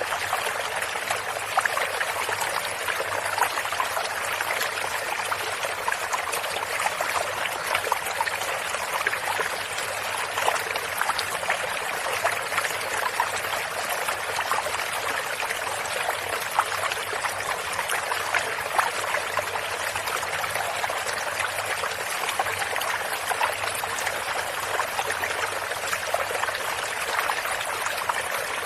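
Water from a small stream running and trickling, a steady babbling splash.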